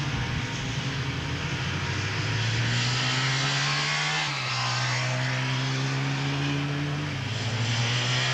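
Motorcycle engines running on a race track: one engine climbs steadily in pitch, drops sharply as it shifts up a gear about four seconds in and again about seven seconds in, then climbs again, with other bikes fainter underneath.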